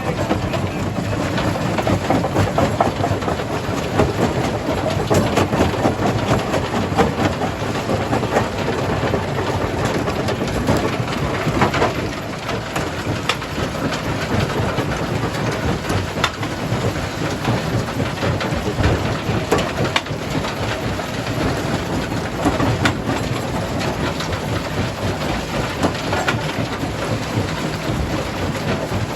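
Jaw crusher crushing stone: a dense, continuous clatter of cracking and grinding rock with many sharp knocks.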